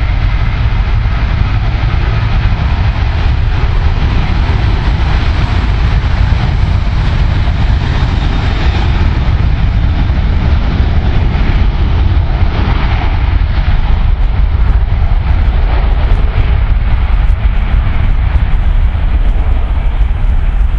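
Boeing 737-800's CFM56-7B turbofan engines at takeoff power, a loud, steady, deep rumble with a broad hiss above it.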